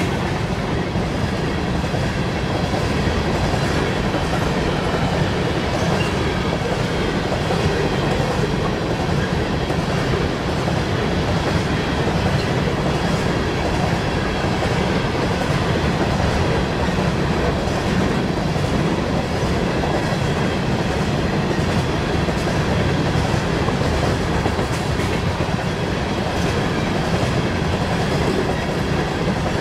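A long freight train of coal cars rolling past at a steady pace: continuous rumble and rattle of steel wheels on the rails, with faint repeated wheel clicks.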